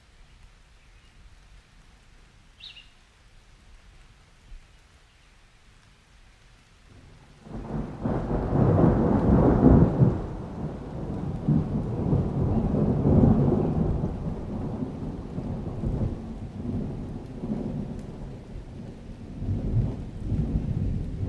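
Thunderstorm ambience: soft rain with a single bird chirp, then about a third of the way in a long peal of thunder breaks in suddenly. The thunder is loudest a couple of seconds after it starts and rolls on as a rumble.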